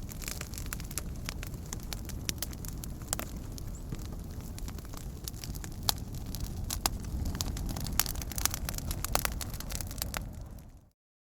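Wood campfire burning: a steady low rumble of flames with frequent sharp crackles and pops from the burning wood. Near the end it fades out to a moment of silence.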